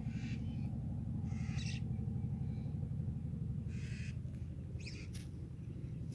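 Riverbank-nesting birds giving four short, harsh calls a second or more apart, over a steady low rumble.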